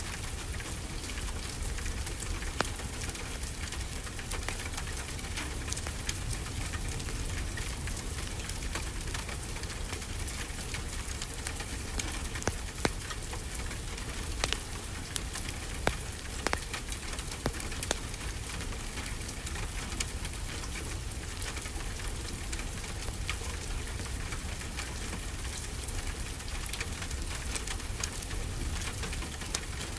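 Steady rain hiss mixed with a crackling wood fire, with scattered sharp pops and snaps, several of them close together around the middle, over a low steady rumble.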